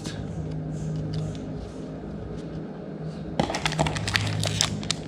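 A low steady hum, then from about three and a half seconds in a dense, crisp crinkling of a booster pack's foil wrapper being handled.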